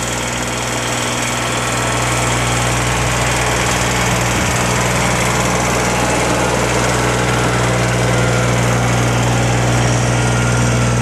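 Engine of a vehicle plowing snow, running steadily with a constant low hum under an even hiss, growing a little louder over the first couple of seconds.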